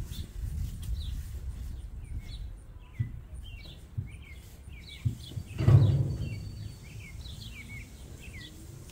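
Small birds chirping over and over in short high notes, over a low rumbling noise. A few soft knocks and one louder thump a little past halfway.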